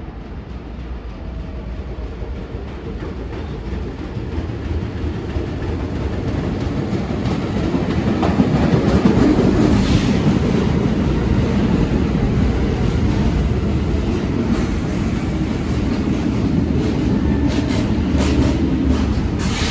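R46 New York subway train approaching and running through the station, its rumble growing louder over the first several seconds and staying loud, with wheels clacking over rail joints near the end.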